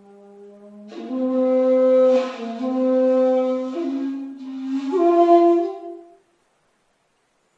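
Long 2.8 jinashi shakuhachi played solo: a soft low note, then a loud breathy phrase from about a second in that steps between a few pitches, ending abruptly about six seconds in.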